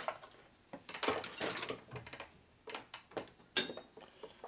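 Scattered metal clinks and knocks as a lathe's compound rest is loosened and swung to an angle, with one sharp, ringing metal clink about three and a half seconds in.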